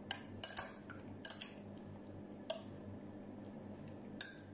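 Metal spoon clinking against a glass mixing bowl while stirring chicken pieces in a soy sauce marinade: about seven irregular clinks.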